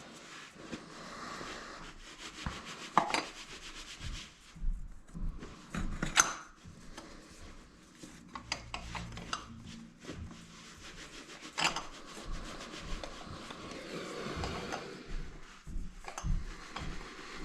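Hand tools worked on a motorcycle's oil filter: an oil filter wrench and socket scraping and rubbing against metal, with scattered clinks and a few sharper knocks.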